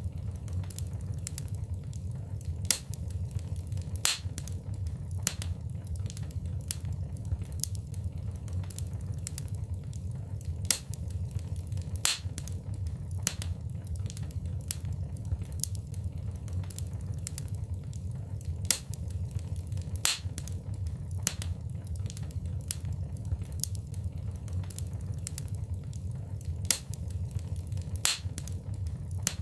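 Wood fire crackling in a fireplace: irregular sharp snaps and pops, a few louder ones every couple of seconds, over a steady low rumble of the flames.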